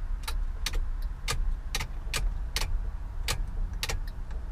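Hazard-light flasher clicking about twice a second over the low, steady idle of the 240Z's L28 straight-six engine.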